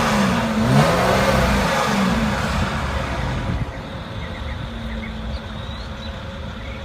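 Mercedes-Benz GLE 350's V6 engine and exhaust being blipped through about three quick revs, each rising and falling. It then settles back to a steady idle at about three seconds in.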